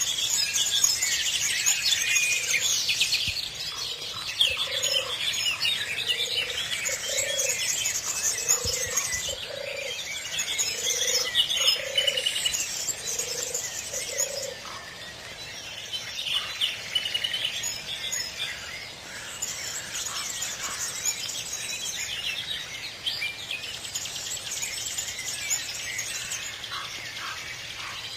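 Many birds chirping and singing at once, a dense mix of high calls. Through the first half, a lower two-note call repeats several times about every second and a half, then stops.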